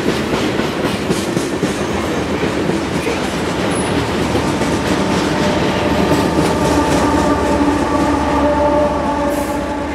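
Freight train rolling past, its steel wheels clattering steadily over the rails. From about five seconds in, the steady hum of diesel locomotives passing close by joins the wheel noise.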